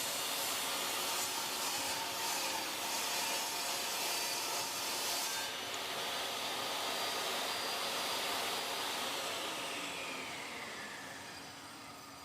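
Electric table saw running and cutting 3/4-inch plywood, then spinning down over the last few seconds with a falling whine.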